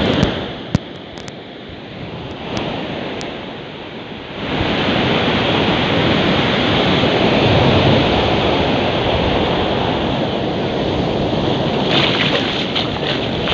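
Heavy storm surf crashing onto the beach, with strong wind rumbling on the microphone. The roar drops for the first four seconds or so, with a few sharp clicks, then comes back loud.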